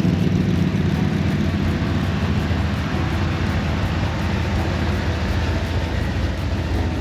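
Car engines running as a line of vehicles rolls slowly past, a steady low rumble.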